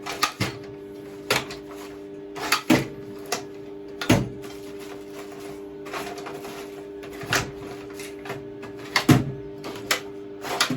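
Rummaging through scrap metal bits to find washers: irregular clinks and knocks of small steel pieces being moved about, some sharp and loud, over a steady low hum.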